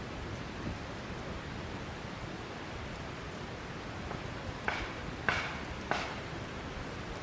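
Wood campfire burning with a steady hiss, and three sharp crackling pops about half a second apart near the end.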